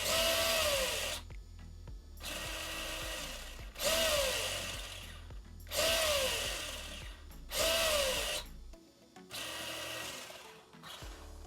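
RC rally car's electric motor and drivetrain spinning up in short bursts as the throttle is blipped, about six times, roughly every two seconds. Each burst has a whine that falls in pitch.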